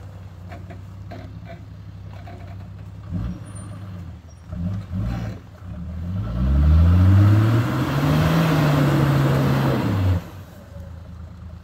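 Vehicle engine running steadily, with a few short revs, then revving up with a rising pitch and a loud rush of noise that holds for about four seconds before cutting off suddenly.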